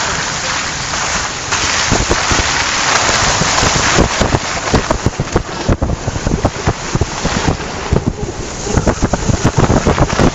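Loud, steady rushing noise on the microphone that turns into rapid, irregular buffeting thumps about four seconds in.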